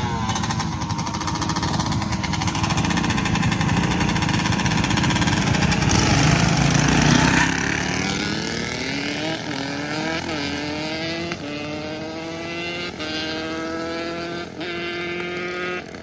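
A motorbike engine passes close by, loudest about six to seven seconds in, then accelerates away. Its pitch climbs in several stretches with short dips between them, and it fades toward the end.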